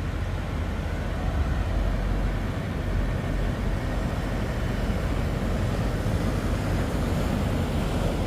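Boat outboard motors running, a steady low rumble.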